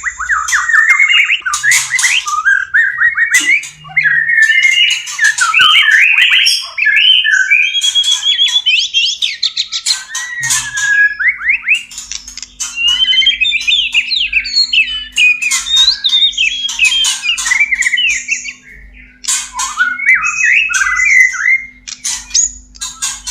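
White-rumped shama (murai batu) mating song: a continuous run of varied whistled phrases, fast trills, pitch glides and sharp clicks. This is the breeding-condition song that breeders play to bring shamas into breeding readiness.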